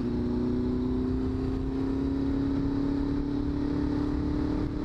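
Motorcycle engine running at road speed, its pitch creeping slowly upward, over a steady low rumble.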